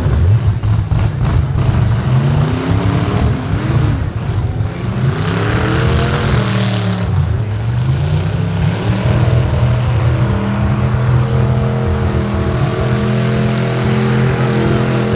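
Demolition-derby pickup truck engines revving, their pitch swinging up and down as the trucks accelerate and back off, with a few short knocks in the first couple of seconds. From about halfway an engine holds steady at high revs.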